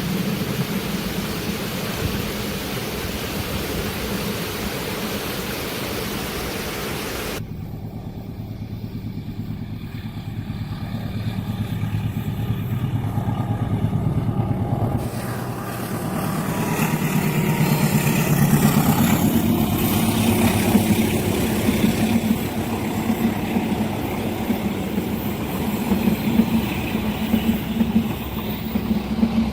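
Road vehicle engines idling with a steady low hum; the sound changes abruptly about seven seconds in, and grows louder and more uneven in the second half.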